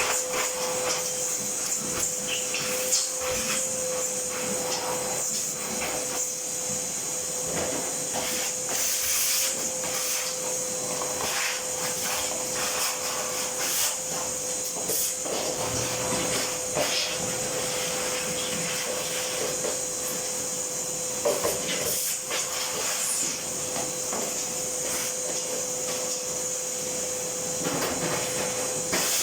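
Clothes dryer running with a steady hum and a hiss, with irregular knocks and scrapes from the spinning drum: the noisy spinning that the owner puts down to a damaged drum housing bearing.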